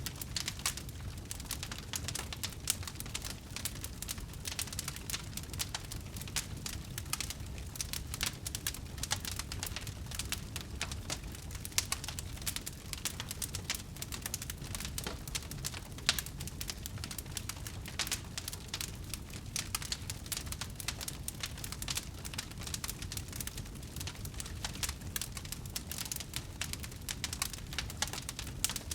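Wood bonfire burning: dense, irregular crackling of the burning wood, with a few louder pops, over a low steady rumble.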